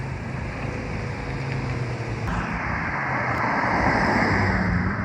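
Car engines running, with a rushing noise that swells from about two seconds in and keeps getting louder.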